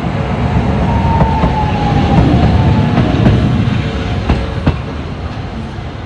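Train passing: a loud rumble that builds to its peak two to three seconds in and then fades, with sharp clacks of wheels over rail joints and a whine that slides slightly down in pitch in the first half.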